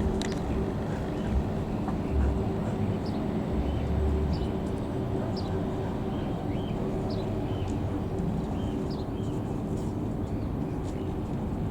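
Steady low jet rumble of a Boeing KC-135 Stratotanker flying over, with birds chirping now and then.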